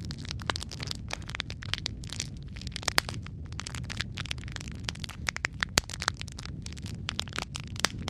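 Wood fire burning in a fireplace: dense crackling and popping from the logs over a steady low rumble of flame, with a few sharper pops, the loudest about three seconds in and just before six seconds.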